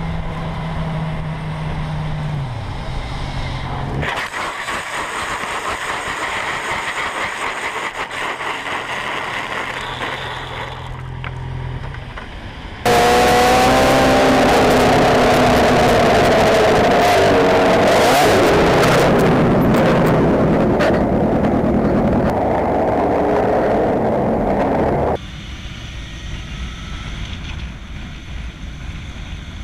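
Vehicle engines running in several short clips that cut abruptly from one to the next. A louder, noisier stretch in the middle has engine tones rising in pitch.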